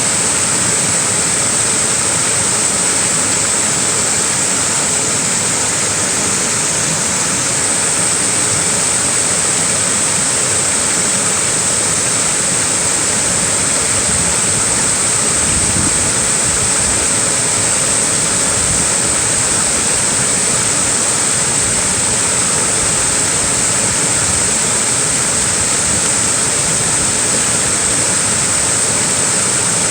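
Small waterfall splashing, a steady, unbroken rush of falling water.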